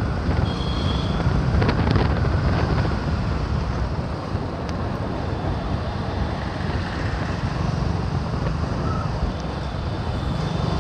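Wind rushing over the microphone of a moving motorcycle, with the engine and road noise steady underneath.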